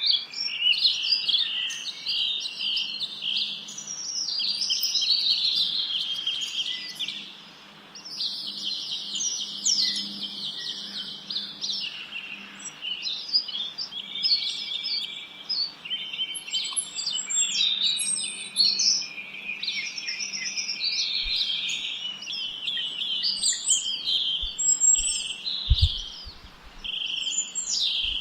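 Many small songbirds chirping and twittering at once in a dense, continuous chorus of rapid high notes, with a brief lull about a quarter of the way in. A few low knocks near the end.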